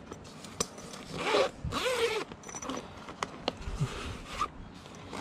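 Zip on a padded fridge cover being pulled, a few short rasping strokes with a couple of sharp clicks in between.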